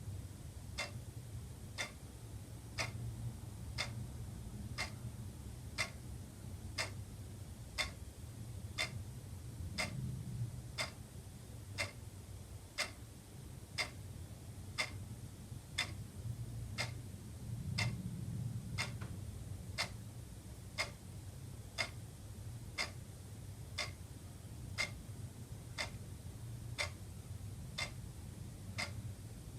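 Wall clock ticking steadily, one tick a second, over a low steady hum.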